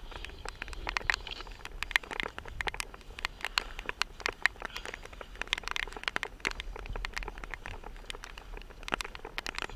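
Rain falling, with many irregular sharp drop ticks close to the microphone over a steady low rumble.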